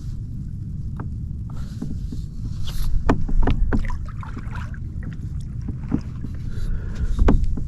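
Kayak paddling: a paddle dipping and splashing in the water, with several sharp knocks of the paddle against the hull of a Pelican Catch Classic 100 fishing kayak, over a steady low wind rumble on the microphone.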